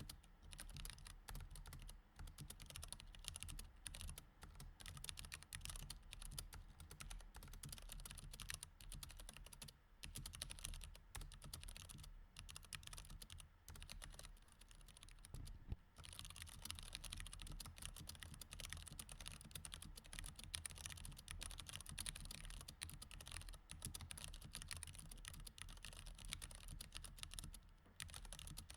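Mechanical keyboard with Cherry MX Red switches being typed on: a soft, steady stream of rapid key clicks, broken by a few short pauses.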